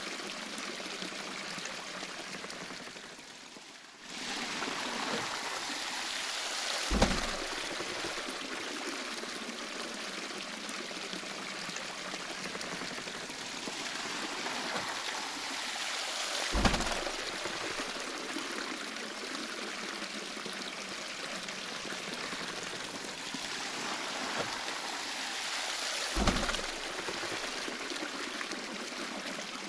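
Water flowing and splashing steadily around a traditional waterwheel, with a deep thump recurring about every ten seconds, three times in all.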